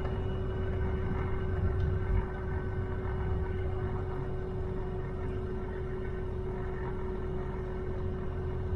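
Pickup truck moving slowly, heard from inside the cab: a steady low engine and road rumble with a constant hum, a little louder for the first two seconds and then easing off.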